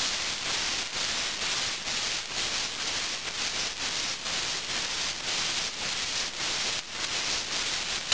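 Fried rice with soy sauce sizzling in hot oil in a nonstick wok as it is tossed: a steady hiss with faint regular swishes.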